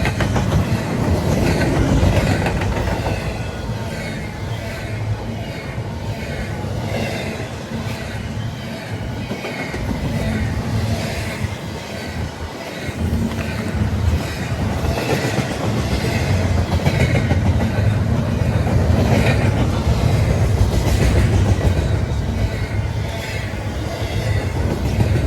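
CSX intermodal container train rolling past, its cars' wheels clicking over the rail joints in a steady, uneven clatter under a continuous low rumble.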